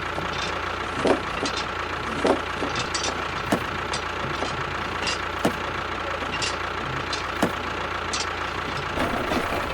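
A motor running steadily with a faint high whine, with a sharp click roughly every second and lighter ticks in between.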